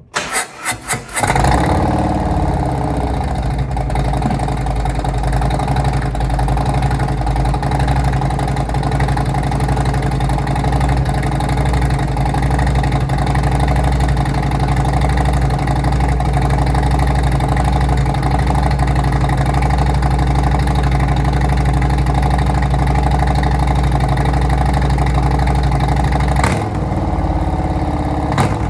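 Harley-Davidson Milwaukee-Eight V-twin engine through a TAB Performance 50 cal full exhaust with zombie baffle: the starter cranks for about a second, the engine catches, then idles steadily and loudly, with a brief change near the end.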